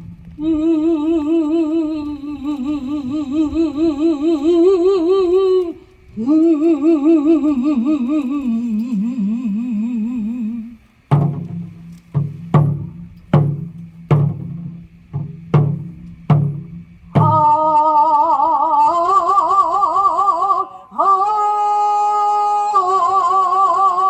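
Korean folk singing (sori): long held notes with a wide, wavering vibrato. In the middle the singing breaks off for a run of about a dozen buk drum strokes over some six seconds, then the held notes return.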